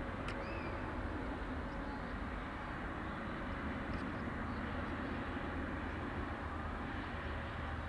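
Steady distant rumble of a jet airliner's engines, the Emirates Airbus A380-800, holding an even level with no rise or fall.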